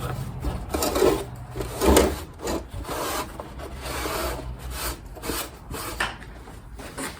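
A rag rubbing and wiping down the inside of a kerosene heater, in irregular strokes.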